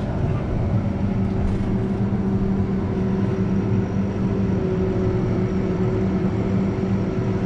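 Vehicle engine running steadily at a constant pitch, a low even hum with no change in speed.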